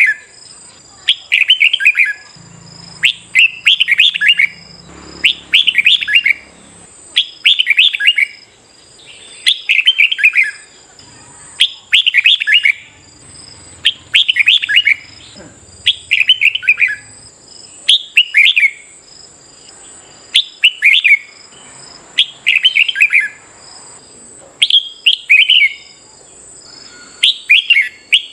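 Red-whiskered bulbul singing: short, bright phrases of quick falling whistled notes, repeated about every one and a half to two seconds, the fast-paced song used to spur caged bulbuls into competitive singing.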